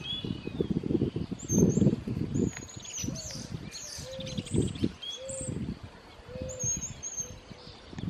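Birds chirping, with short high calls and a quick trill about three seconds in, over uneven low wind rumble on the microphone. A few short, soft low notes come about halfway through.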